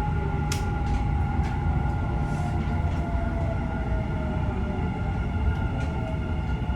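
Dubai Metro train running, heard from inside the carriage: a steady low rumble with a steady electric whine. A lower whine falls slowly in pitch through the middle. There is a sharp click about half a second in and a couple of fainter ones soon after.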